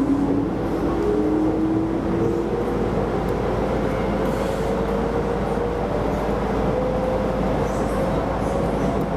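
Keisei Line electric commuter train running, heard from on board, with a steady rolling rumble. Over it, a motor whine rises slowly in pitch as the train picks up speed.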